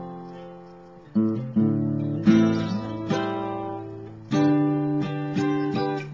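Acoustic guitar strumming chords without singing, each chord left to ring and fade before the next, with a few quicker strokes near the end.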